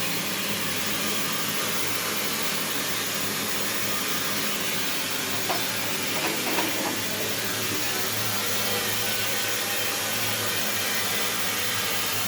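Mains water hissing steadily through the supply valve and pipes just after the water is turned on, filling the newly plumbed system. A few faint knocks come about six seconds in.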